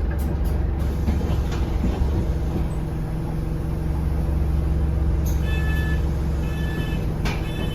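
Inside an Alexander Dennis Enviro200 single-deck bus: the diesel engine and drivetrain run with a steady low drone. From about five seconds in, a high beep repeats on and off.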